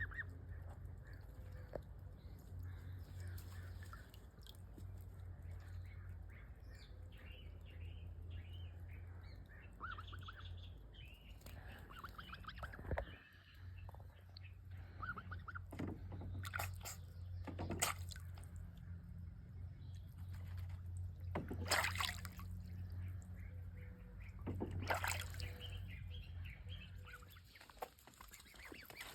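A young domestic goose, a few months old, paddles and splashes in water with a few sharp splashes along the way, giving soft, short peeping calls. A steady low hum runs underneath.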